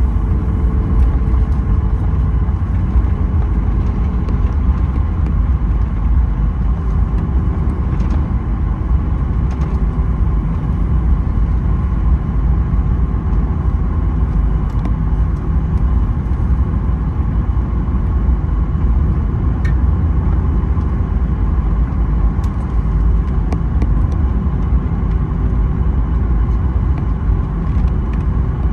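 Steady low rumble inside the cabin of a Boeing 737-900ER rolling on the ground after landing, with a faint steady whine from its CFM56 engines at idle.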